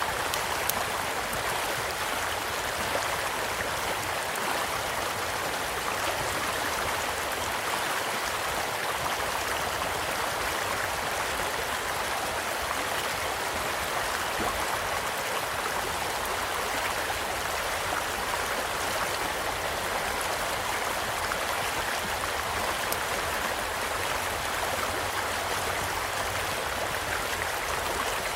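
Small stream flowing steadily, an even rushing and gurgling of water, with a few faint crackles from a campfire.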